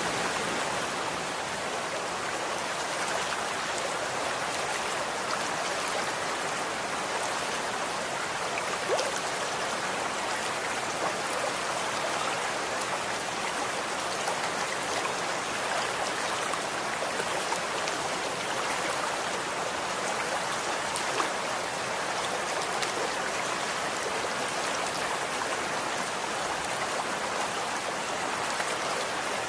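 Running water flowing steadily, a continuous even rushing with a few brief splashy ticks, one of the more noticeable about 9 s in and another about 21 s in.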